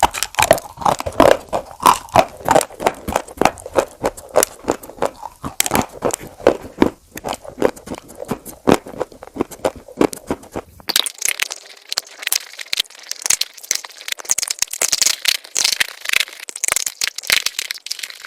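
Crunchy food bitten and chewed right at the microphone: a fast, irregular run of loud crunches. About eleven seconds in, the fuller crunching stops and gives way to a thinner, higher crackling.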